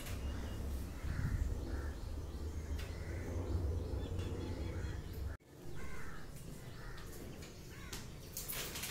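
Faint bird calls over a low steady hum, with a brief sudden dropout about five seconds in.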